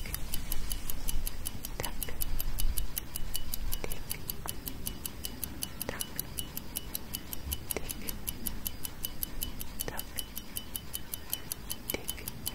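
Clock tick-tock sound effect: quick, even, high-pitched ticks, with a stronger, deeper tick about every two seconds.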